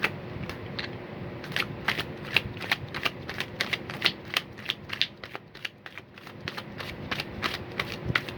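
Tarot deck being shuffled by hand: a quick, uneven run of card clicks and snaps, several a second, starting about a second and a half in.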